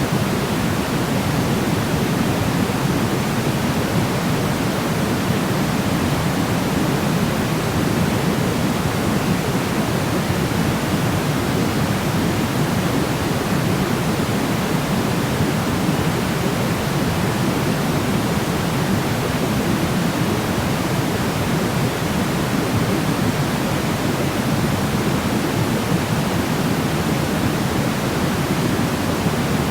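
Steady white noise for sleep, an even, unchanging rush weighted toward the low end rather than a bright hiss.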